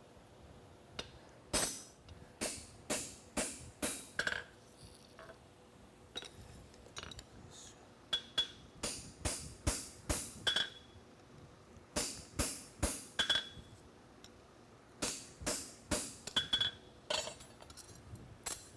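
Hammer blows on steel at a blacksmith's anvil while a horseshoe is forged, with bright metallic ringing. The blows come in quick runs of three to eight strikes with short pauses between them.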